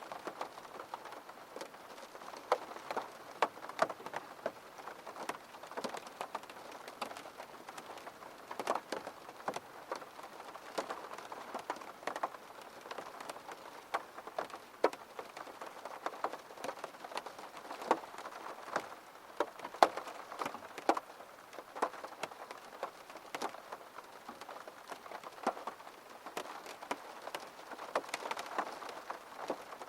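Steady rain falling, with many sharp, irregular drop taps on a close surface over a soft patter.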